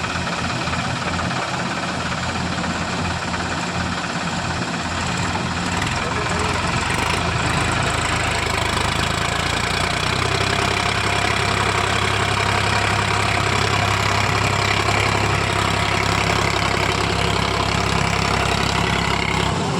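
Sonalika tractor's diesel engine running steadily, growing louder and heavier about halfway through.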